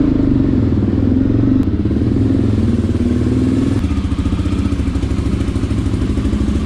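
Motorcycle engine running, a loud, steady low rumble with a fast, even pulse.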